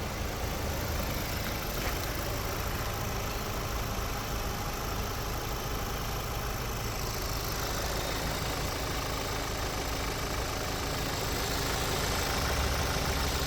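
Vehicle engine idling steadily during an engine test, growing a little louder over the last few seconds.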